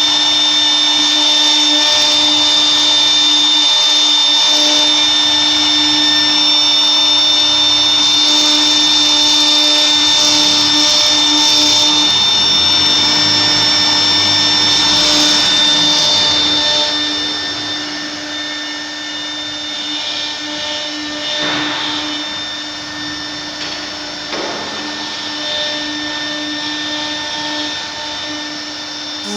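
CNC router running: a steady, high motor whine over machining noise. It turns quieter about two-thirds of the way through.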